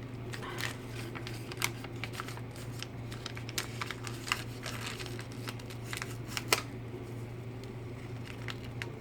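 Small plastic packaging being opened by hand, crinkling and rustling with scattered sharp clicks, the sharpest about six and a half seconds in. A steady low hum runs underneath.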